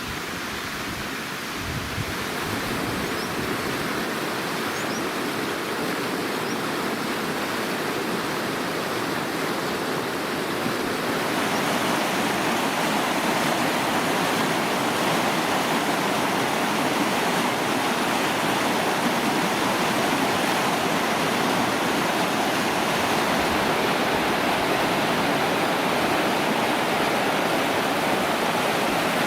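Steady rush of flowing water from a stream, growing louder about eleven seconds in.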